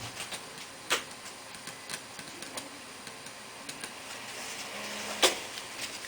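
Laptop keyboard keys being pressed: scattered light clicks, with two sharper taps about a second in and near the end, over a faint steady hiss.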